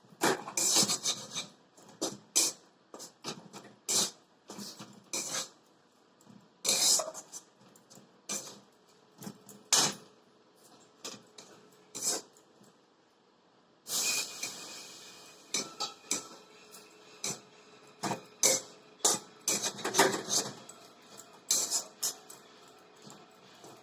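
A cooking utensil scraping and knocking against a pan as besan dampened with a little water is stirred and worked, in irregular strokes. A longer run of continuous scraping comes about two thirds of the way through.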